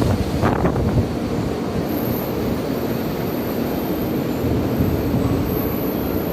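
N700-series Shinkansen train pulling into the station, a steady rumble of wheels and running gear with a thin high whine that comes in about two seconds in.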